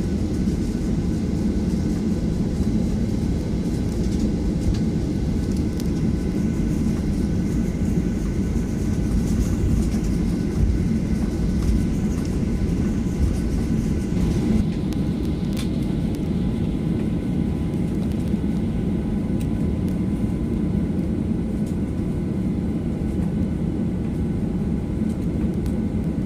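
Jet airliner cabin noise after landing: a steady low rumble of the engines and air system heard from inside the cabin, with a few faint steady whining tones. About a third of the way in, the upper hiss drops away and the rumble carries on.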